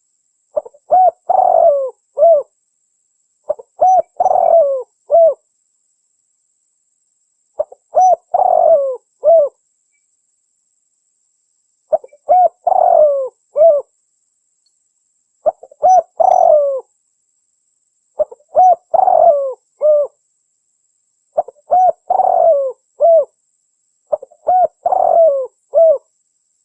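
Spotted dove (tekukur) cooing: the same multi-note coo phrase, repeated about eight times a few seconds apart, with dead silence between phrases.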